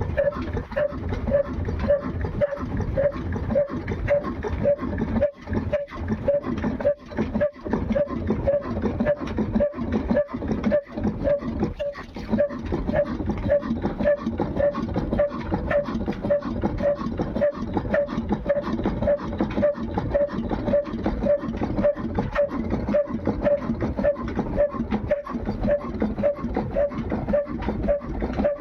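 Heavy diesel engine running with a slow, even beat of about two pulses a second over a low rumble.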